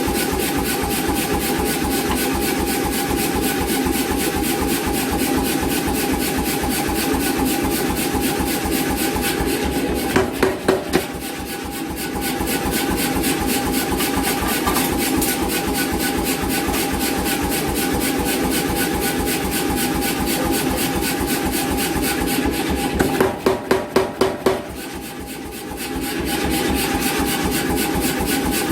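An 88 lb C41 air power hammer running at idle, with a steady motor hum and fast, even pumping. Twice the ram strikes in a quick run of blows, about four about ten seconds in and about seven near the end.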